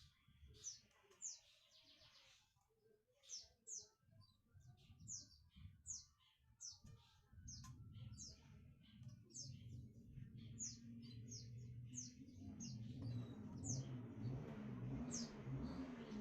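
Small birds chirping faintly: short, high, downward-sweeping chirps, a couple a second. A low hum comes in about halfway through and grows louder near the end.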